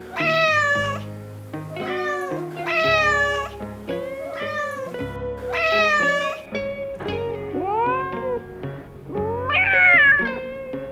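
Cats meowing again and again, about seven short calls that mostly fall in pitch, over background music. The loudest meow comes near the end.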